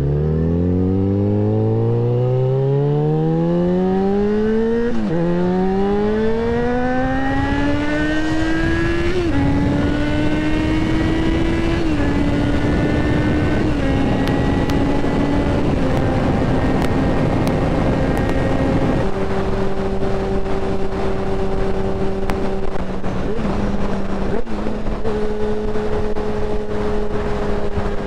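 Yamaha XJ6N's 600 cc inline-four engine accelerating hard from low revs, its pitch climbing steeply with upshifts about five seconds in and again around nine seconds. It then holds steadier revs with a few small steps down and a drop to lower revs about two-thirds through, picking up again at the very end, with wind noise growing as speed builds.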